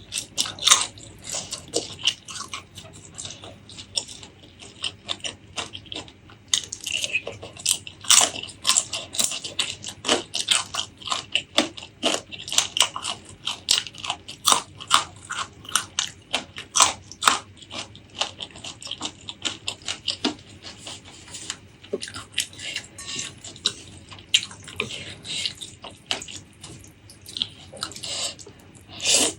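Close-miked eating: crunchy bites and chewing, with many sharp, uneven crackles a second.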